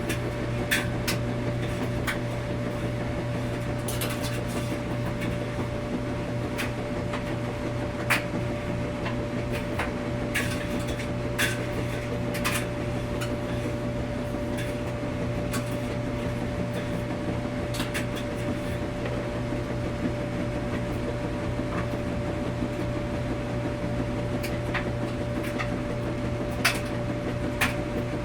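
Laundromat washing machine running: a steady low hum with a constant higher tone over it, and irregular sharp clicks and knocks every few seconds.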